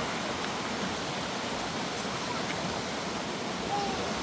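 Steady, even rushing noise at a constant level, of the kind made by running water, with a few faint short calls or voices over it.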